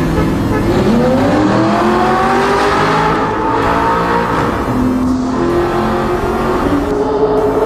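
Audi R8's 4.2-litre V8 through an Armytrix titanium valved exhaust, accelerating hard. The engine note climbs in pitch over the first few seconds and holds, drops about five seconds in, then climbs again.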